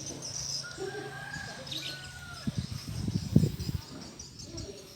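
Birds calling: a few thin high chirps, then two short level whistles about a second apart.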